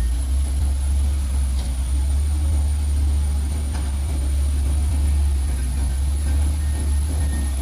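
Heavy diesel engine running steadily with a deep, even rumble, and a faint steady high whine above it.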